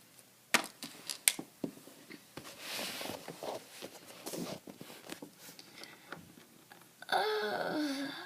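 Small objects being handled: a few sharp clicks and taps early on, then rustling. Near the end comes a short voice-like sound that falls in pitch.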